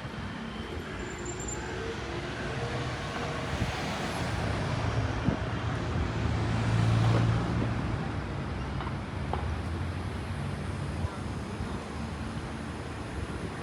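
Street traffic: a motor vehicle drives past close by, its low engine hum rising to a peak about halfway through and then fading, over a steady wash of city traffic noise.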